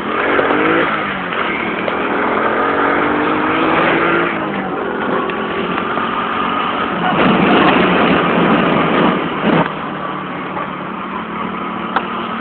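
Honda C50 step-through with a 90cc single-cylinder four-stroke engine, revved hard and pulling away, its pitch rising sharply and then climbing steadily. About halfway through, a loud rushing noise covers it for a couple of seconds; then the engine settles to a lower, steady note.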